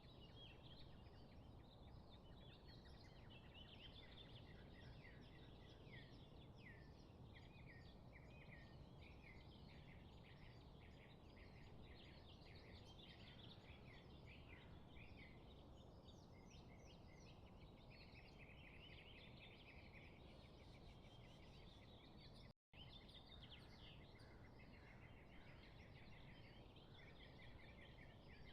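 Many small birds chirping and twittering in quick, overlapping calls over a steady low background hiss. The sound cuts out for a split second about two-thirds of the way through.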